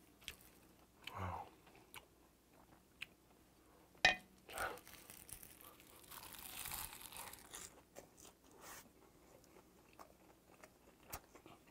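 A large mouthful of bibimbap wrapped in seasoned laver (gim) being bitten and chewed, picked up close by a clip-on mic: scattered small crunches and clicks, with a longer stretch of crunching about five seconds in as the wrap goes into the mouth.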